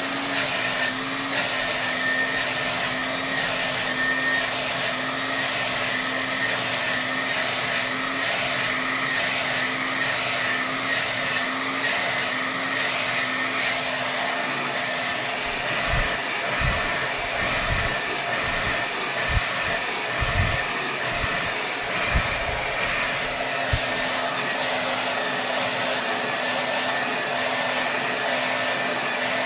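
Hair dryer running steadily at full power: a continuous rush of air over a motor hum that pulses about twice a second, with a thin high whine. A few low thumps come midway through.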